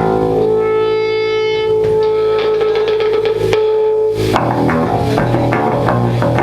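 Punk rock band playing live: an electric guitar holds one long sustained note over the drums, then the band breaks into choppier playing about four seconds in.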